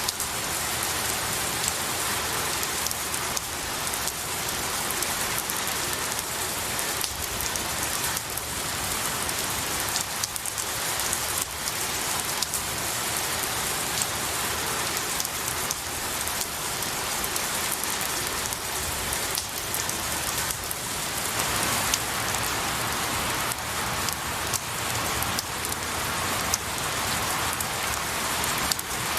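Steady rain pattering on pine needles and tree branches, with many individual drops clicking over a continuous hiss. The rain gets a little heavier about two-thirds of the way through.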